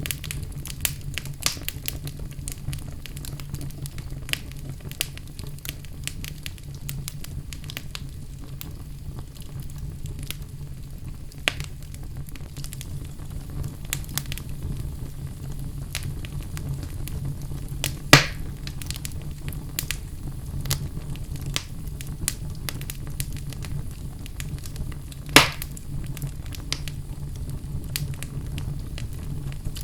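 Fire crackling in a fireplace: a steady low rumble of flames under a constant scatter of small crackles, with two loud sharp pops, one past the middle and one about three-quarters through.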